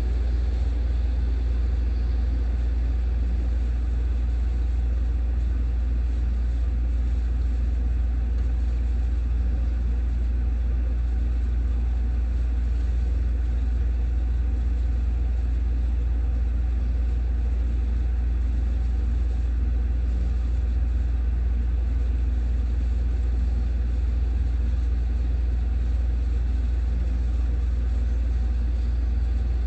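A steady, unchanging low rumble.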